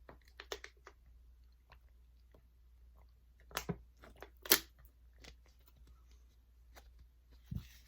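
A person chewing food, with scattered short crunches and wet clicks, the loudest about three and a half and four and a half seconds in.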